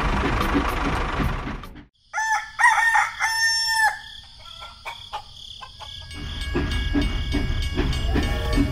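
A rooster crows once, a loud call of several linked parts lasting about two seconds. It comes right after a steady rumbling motor noise cuts off abruptly. The rumbling returns a few seconds later.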